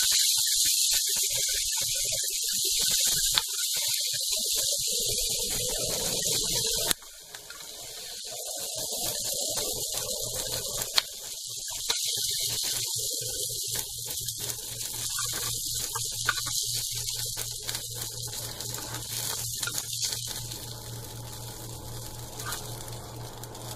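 Sliced onions, green chillies, garlic and tomatoes sizzling in hot oil in a nonstick pan, with a spatula scraping and tapping the pan. The sizzle drops suddenly about seven seconds in and goes on fainter, with a steady low hum, as the vegetables are scooped out onto a plate.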